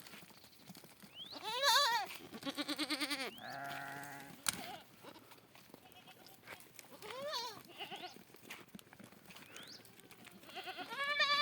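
Goats and sheep bleating: about five separate calls, some with a fast quavering tremble, the loudest about two seconds in and near the end. A single sharp click comes about halfway through.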